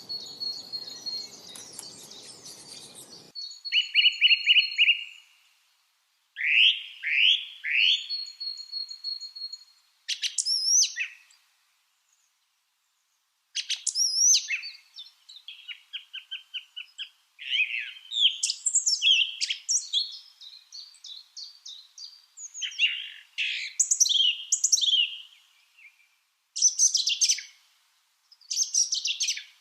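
Lovebirds chirping in quick series of sharp, high-pitched chirps and short whistled calls, with brief silent pauses between the series.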